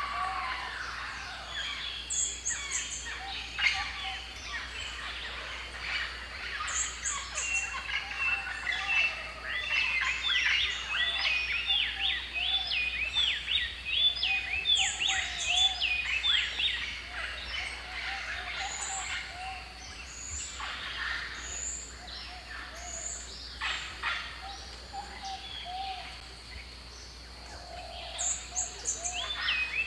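Several birds calling and singing together: a busy chorus of chirps, with a fast run of rising-and-falling chirps through the middle and short, very high trills repeating every few seconds.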